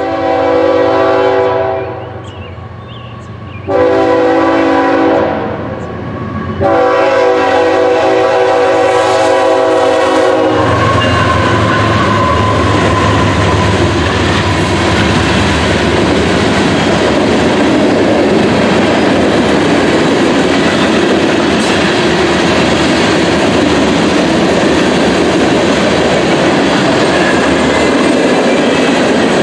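Freight locomotive horn on a lead GE ES44C4 diesel, sounding three long blasts for a grade crossing; the third blast is the longest. About ten seconds in, the horn stops and the loud, steady noise of the train rolling past close by takes over: locomotives followed by loaded grain cars.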